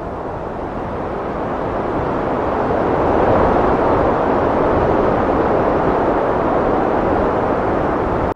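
Heavy wind blowing as a steady rushing noise, swelling about three seconds in, then cutting off suddenly at the end.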